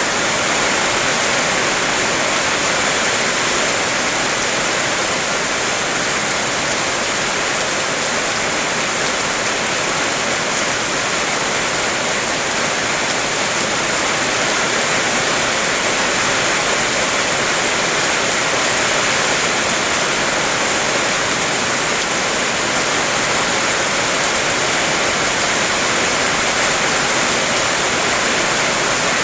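Heavy rain falling on a car, heard from inside the cabin: a steady, dense hiss that doesn't let up.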